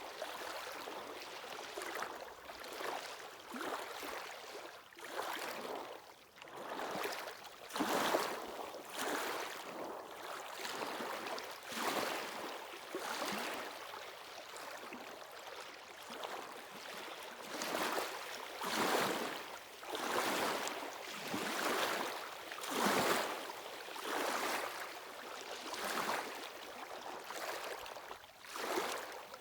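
Waves washing onto the shore, each surge rising and falling away about every one to two seconds, some louder than others.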